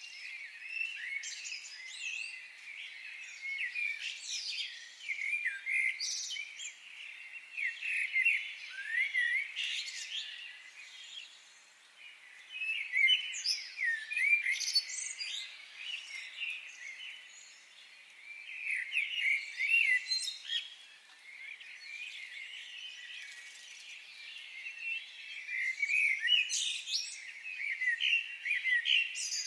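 Several birds chirping and singing together, with many short, quick high-pitched notes in busy clusters.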